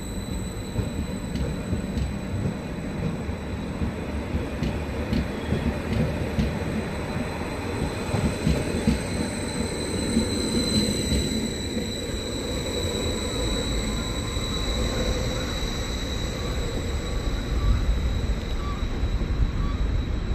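A train running through the station, with a steady high squeal or whine over the rumble of its wheels on the rails; the rumble grows louder over the second half.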